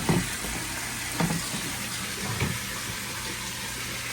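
Water from the koi pond's filters flowing and splashing steadily. Three soft thumps come about a second apart.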